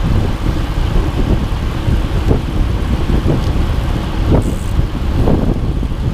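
Steady low rumble of a moving vehicle, with wind buffeting the microphone and a few light knocks.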